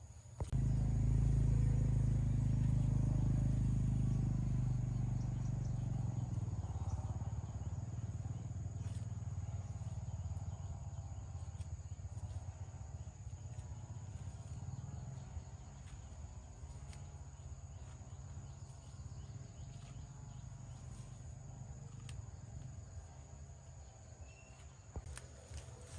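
A low motor rumble that starts suddenly and slowly fades away over about twenty seconds, over a steady high insect buzz.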